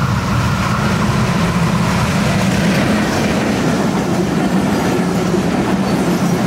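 Passenger train running past, a loud, steady rumble of its wheels on the rails.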